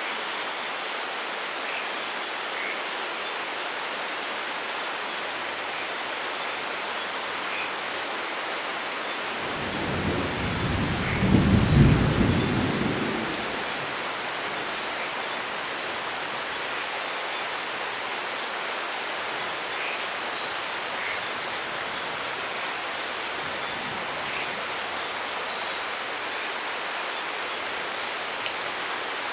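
Steady heavy rain, with one roll of thunder that swells about ten seconds in and fades a few seconds later.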